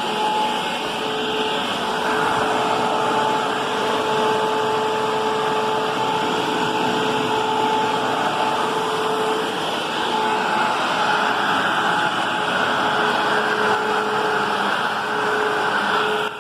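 Upright vacuum cleaner running steadily: an even rush of air with a steady motor hum.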